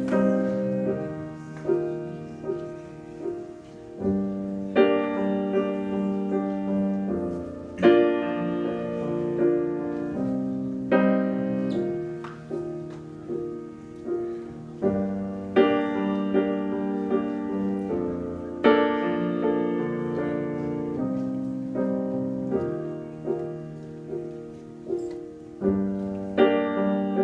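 Solo piano playing a slow intro: sustained chords struck and left to ring, with a fuller, louder chord every few seconds and lighter notes between them.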